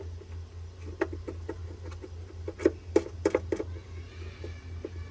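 A run of irregular sharp clicks and taps of plastic parts being handled and fitted together, the loudest a little before and at the middle, as the pool vacuum's housing is lined up and its screws started by hand, over a low steady hum.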